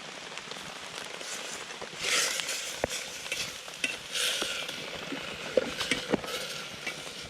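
Chicken biryani sizzling in a pan over a campfire, with louder scraping surges about two and four seconds in, as of stirring, and scattered crackling clicks.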